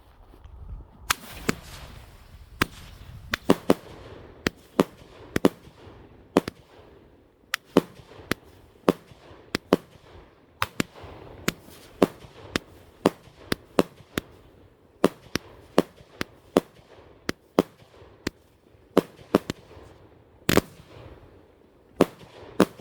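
Consumer firework cake firing a long, uneven string of sharp bangs, roughly one to two a second, starting about a second in.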